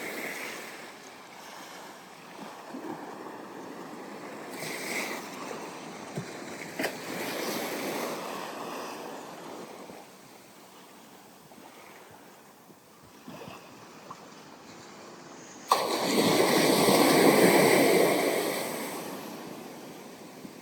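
Ocean waves washing onto a sandy beach in rising and falling surges. About three-quarters of the way through, a louder wave breaks with a sudden start, then fades away over a few seconds.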